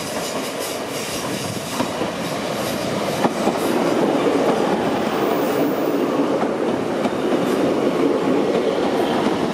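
Class 150 Sprinter diesel multiple unit pulling into the station: engine and wheel noise with clicking over the rail joints, growing louder about four seconds in as the coaches run past close by.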